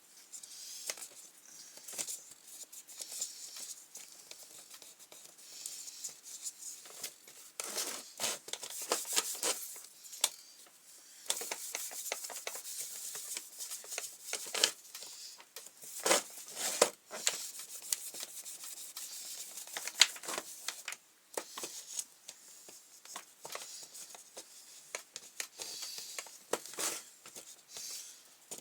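Scrubbing and wiping noises from cleaning a grass trimmer's plastic pull-cord housing, with scratchy rubbing and frequent small clicks and knocks of the parts being handled. The rubbing comes in denser stretches, with pauses between.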